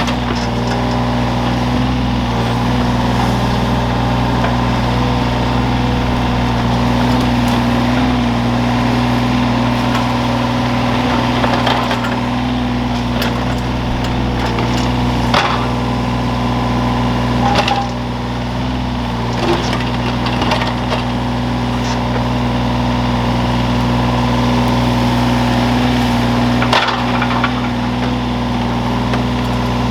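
Excavator engine running steadily, with wood cracking and splintering now and then as the machine digs.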